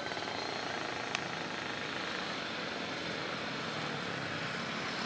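Jet airliner engines, a steady rushing roar, with one sharp click about a second in.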